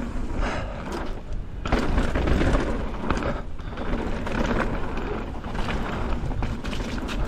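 Downhill mountain bike riding fast over a rough dirt trail: tyres rumbling on the ground, with the frame and chain clattering over bumps and wind rumbling on the microphone.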